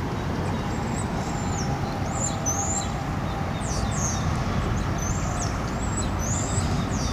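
Small birds chirping repeatedly, short high calls over a steady low rumble of background noise.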